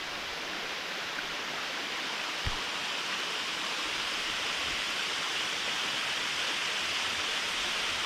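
Waterfall rushing: a steady, even roar of falling water on Panther Creek's upper falls, with one soft thump about two and a half seconds in.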